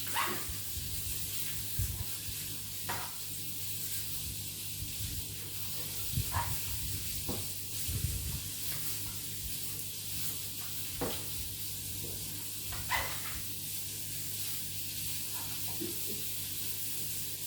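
Food sizzling steadily in a hot frying pan, with a few low knocks now and then.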